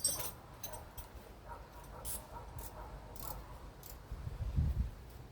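Hand-work noises from handling tools and small hardware: a sharp click at the start, then scattered light clicks and rustles, with a heavier low thudding about four seconds in.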